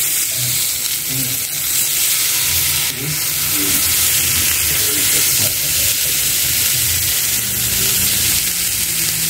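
Halved tomatoes, garlic cloves and onion sizzling steadily in a hot frying pan, being charred for a salsa.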